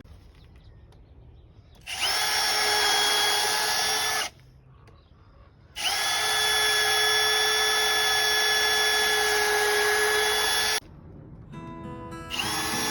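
Power drill running at full speed in three bursts: one of about two seconds, a longer one of about five seconds, and a third starting near the end. Each spins up quickly and holds a steady whine.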